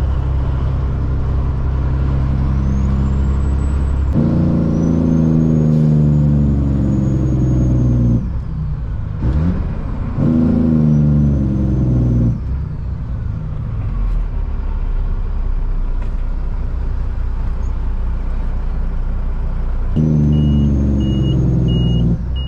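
Caterpillar C-15 diesel truck engine, straight-piped off the turbo, pulling under load with a loud, high turbo whistle that rises with each pull. It drops back off the throttle a few times between pulls.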